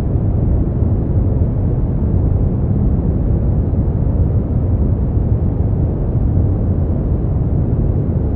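Steady sleep-aid noise, sold as white noise, heavily weighted to the bass: a deep, even rumble with little hiss on top and no change throughout.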